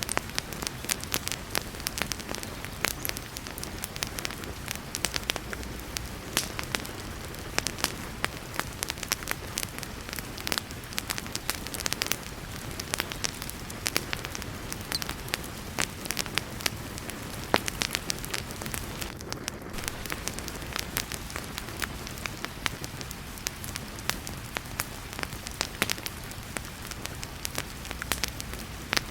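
Wood fire crackling with frequent sharp pops and snaps over the steady hiss of heavy rain.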